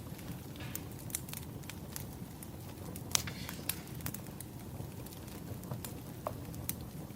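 Firewood burning, crackling: irregular sharp pops and snaps over a low steady rumble.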